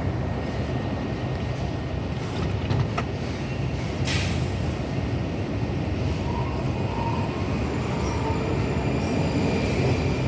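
Washington Metrorail train running through the station with a steady low rumble. A short burst of air hiss comes about four seconds in, and faint metallic wheel squeal follows in the second half.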